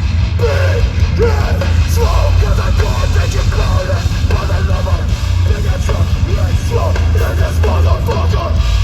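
Hardcore punk band playing live: distorted guitars, bass and drums, loud and steady with a heavy low end.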